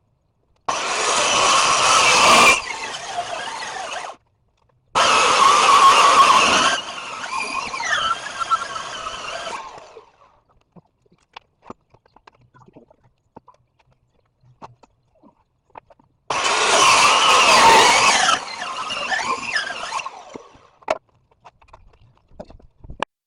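A power saw milling a walnut log, run in three short bursts. Each burst starts suddenly, drops after about two seconds and fades over the next few seconds, with quiet gaps between.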